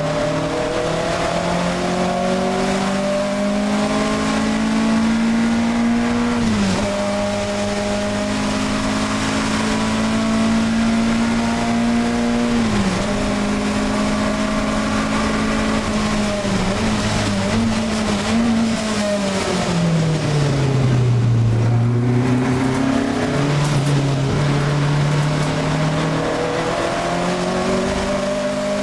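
Alfa Romeo 1750 GTV race car's twin-cam four-cylinder engine at full throttle, heard from inside the cabin. The revs climb and drop sharply at two upshifts. Later the revs fall away as the car slows for a corner, then climb again as it accelerates out.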